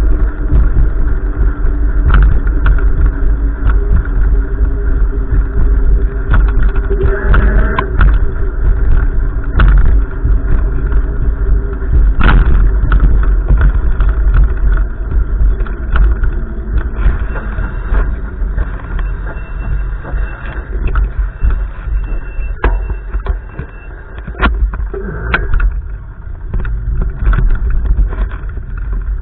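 Gusty wind buffeting the microphone: a loud, continuous low rumble with crackles, easing somewhat about two-thirds of the way through.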